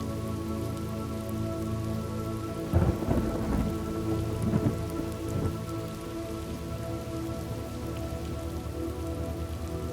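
Steady rain falling, with a thunderclap about three seconds in that crackles and rumbles for two or three seconds before dying away into the rain.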